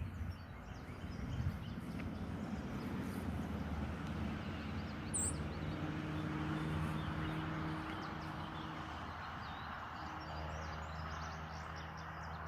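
Steady low engine hum lasting throughout, with a few faint bird chirps above it.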